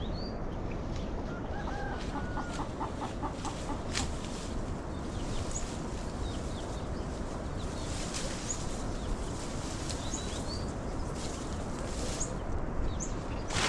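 Chickens clucking, with a run of quick pulsing clucks about two seconds in, and short high bird chirps scattered through.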